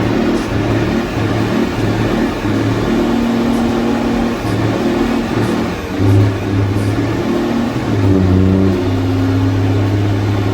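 Heavy truck engine running loud, revving up and down several times.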